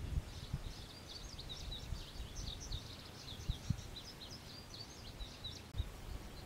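A songbird singing a long, quick run of short high chirps that stops near the end, over a low rumble of wind on the microphone.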